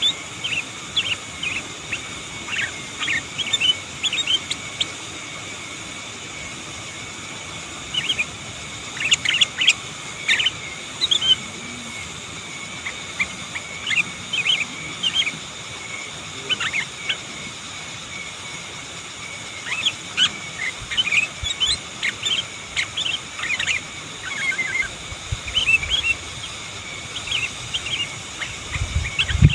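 Sooty-headed bulbul (kutilang) singing in bursts of short, quick chirping phrases, broken by pauses of a few seconds.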